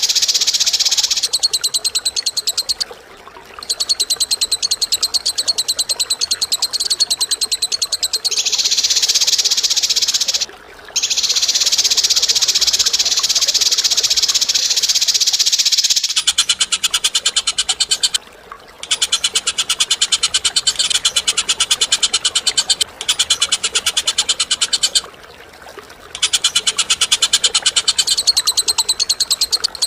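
Cage bird's harsh, very rapid rattling trill given in long bouts of several seconds each, stopping abruptly and starting again about seven times: a masteran tutor recording of 'kasaran' (harsh) song.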